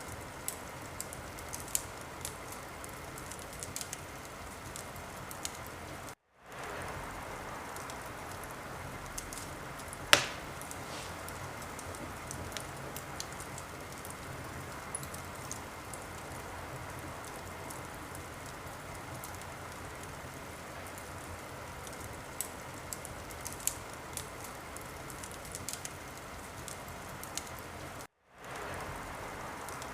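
Wood fire in a fireplace crackling: a steady hiss with scattered small pops and one sharp, loud pop about ten seconds in. The sound drops out for a moment twice, about six seconds in and near the end, then fades back in.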